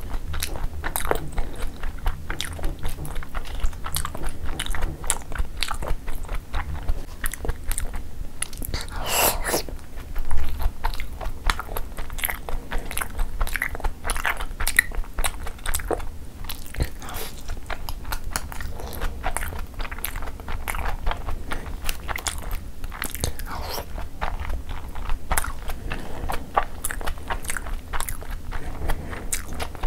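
Close-up eating sounds: a person chewing soft chicken momos soaked in gravy, with many small wet mouth clicks. There is one louder noisy burst about nine to ten seconds in.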